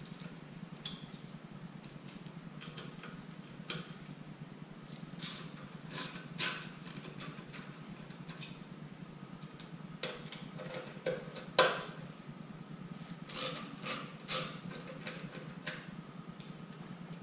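Metal hand tools clicking and clinking irregularly as bolts are taken out of a motorcycle's outer primary cover, over a steady low hum.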